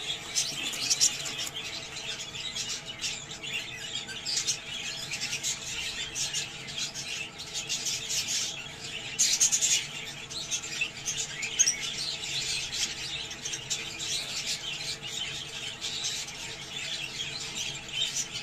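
Several budgerigars chattering and chirping continuously, with frequent short, sharp squawks.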